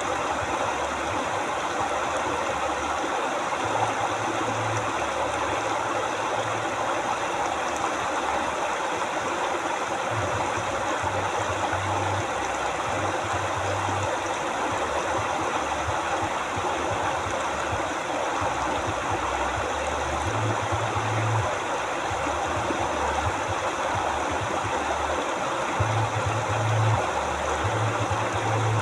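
River water flowing and rushing steadily. A low rumble comes and goes underneath every few seconds.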